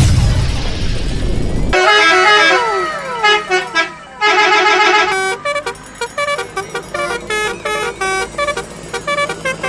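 A noisy engine rumble, then from about two seconds in a telolet bus horn plays a quick melody of short stepped notes, with a few falling gliding tones at first.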